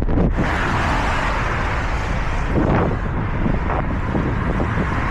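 Steady rush of wind and road noise on a riding cyclist's camera microphone, with traffic on the road; a swell about two and a half seconds in sounds like a vehicle going by.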